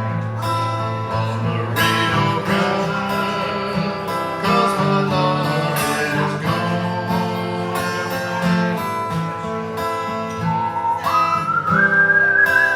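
Live acoustic guitar strumming a country song. Near the end a high melody note slides up and holds.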